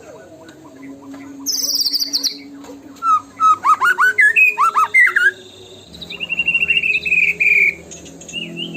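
White-rumped shama (murai batu) song, a lure recording for provoking captive shamas to sing: a fast high trill, then a run of loud rising and falling whistled notes, then a quick buzzy trill, over a faint low hum.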